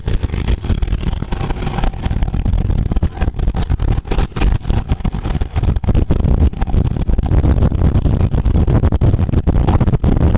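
Loud wind buffeting the microphone of a camera moving at racing speed along a road, a rough low rumble that keeps surging and dropping, with road noise under it.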